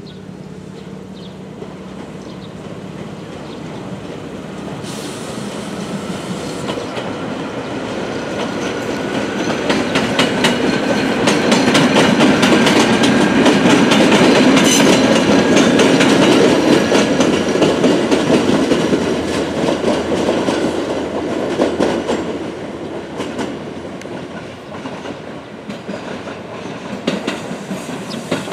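Chichibu Railway electric train running past over the rail joints: a rumble with a steady clickety-clack of wheels on joints that grows louder to a peak about halfway through, with a thin wheel squeal, then fades away.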